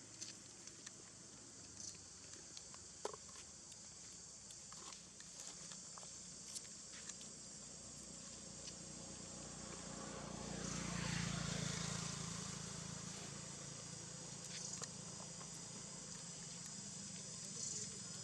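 Faint outdoor background: a steady hiss with scattered small clicks and rustles, and a low rumble that swells and fades about ten seconds in.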